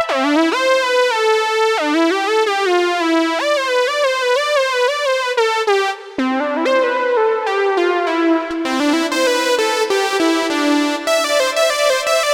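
Roland System-100 software synthesizer playing preset sounds: bright, buzzy notes that swoop down in pitch as each one starts. About six seconds in there is a short break, then a different patch plays a line of steadier notes.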